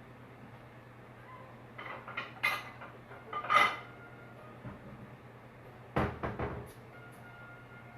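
Dishes and utensils clattering as they are handled and set down, in several short bursts. The loudest comes about three and a half seconds in, and a quick run of knocks follows at about six seconds.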